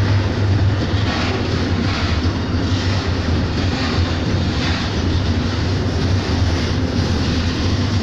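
Freight train's loaded hopper wagons rolling past close by: a steady, deep rumble with a few faint knocks from the wheels scattered through.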